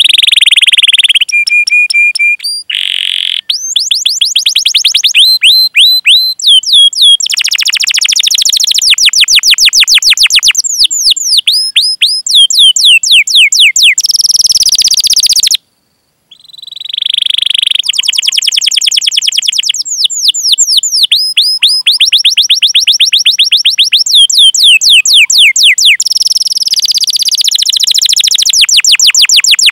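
Domestic canary singing long rolling trills: fast runs of evenly repeated chirps and 'cuit cuit' calls, with a few held whistled notes. The song breaks off briefly about halfway through, then resumes.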